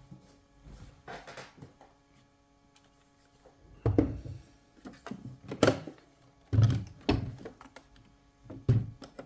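Hard plastic knocks, clicks and thunks as a robot vacuum's dust bin and filter are handled, taken out and fitted back into place, about half a dozen sharp strikes in the second half.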